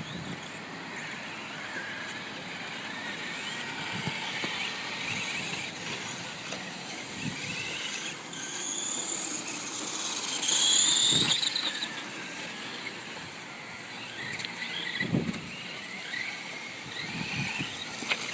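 Volcano EPX electric RC monster truck running: a high motor whine that rises and falls with the throttle, loudest about eleven seconds in, with a few short thumps.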